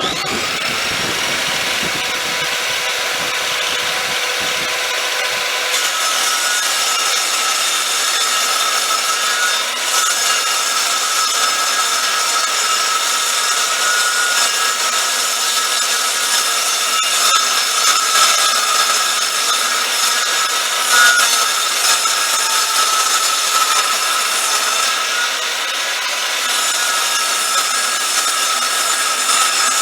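Workzone benchtop table saw running and cutting wood, with a steady high whine from the motor and blade. The sound starts abruptly and changes character about six seconds in.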